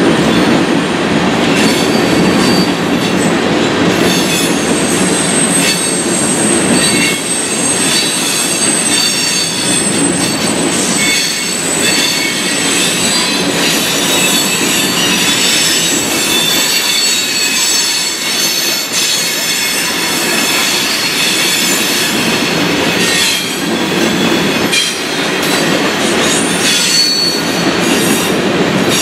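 Freight train of covered hopper cars rolling past close by: a loud, steady rumble and clatter of steel wheels on rail. Thin, high wheel squeals come and go over it.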